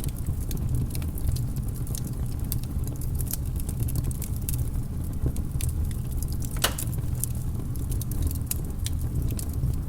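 Wood fire crackling: a steady low rumble with frequent sharp pops and snaps, one louder pop a little past the middle.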